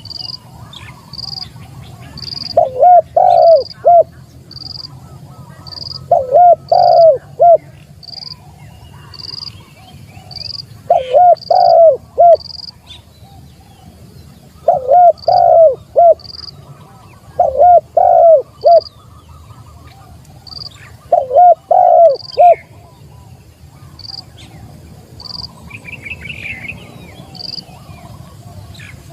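Spotted dove (tekukur) cooing, a short phrase of a few notes repeated six times, every three to four seconds: the call that draws in rival birds. Under it, a high chirp repeats evenly, about once or twice a second.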